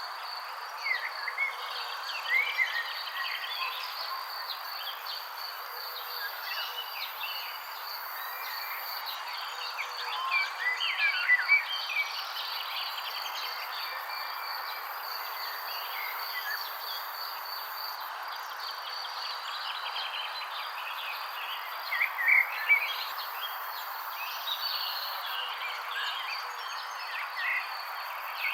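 Birds chirping in short, quick calls over a steady high insect trill and a dense chorus of natural background sound, with louder flurries of chirps about a third of the way in and again past the two-thirds mark.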